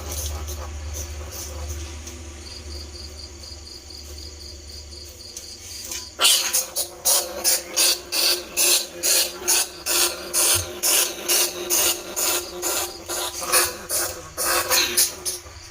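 Bandicoot rat squeaks played as a rat-lure call: rapid, repeated sharp high chirps, about three a second, starting about six seconds in. Before that there are only a faint hum and a faint pulsing high tone.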